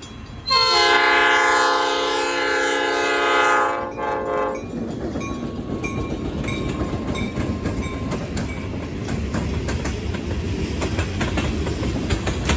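Freight locomotive air horn sounds one long, loud blast. The diesel freight train then rumbles past, with wheels clicking steadily over the rail joints.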